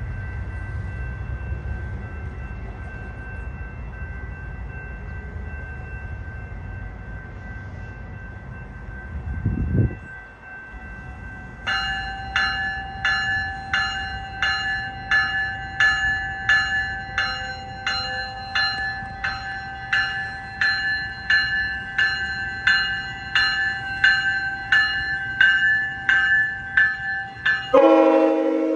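A train rumbling by for about the first ten seconds. Then a railway crossing bell starts ringing at a steady pace, about one and a half strikes a second. Near the end a locomotive's multi-chime air horn sounds loudly.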